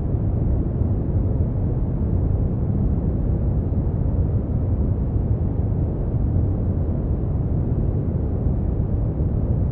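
Steady brown noise: an even, deep rumbling hiss, strongest in the bass and falling away toward the treble, with no rhythm or change.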